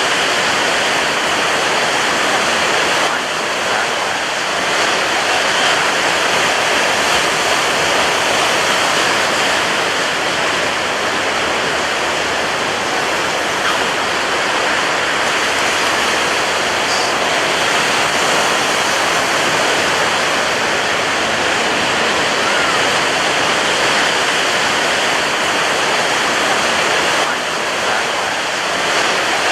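Heavy ocean surf breaking on a beach: a steady, dense roar of waves with only slight swells and dips in loudness.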